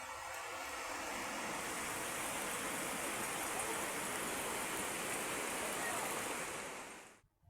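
Heavy rain falling steadily, a dense even hiss. It cuts off suddenly near the end.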